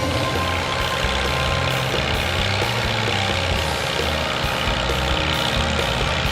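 Tractor engine running under load in a tractor pull: a steady, heavy low drone.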